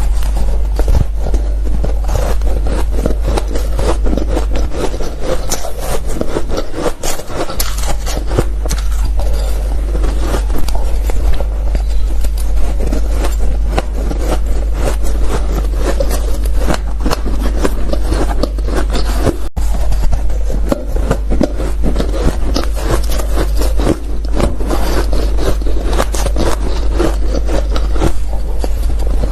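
Ice and powdery freezer frost being bitten and chewed close to the microphone: a dense, irregular run of crisp crunches over a steady low hum, broken once by a momentary gap about two-thirds of the way through.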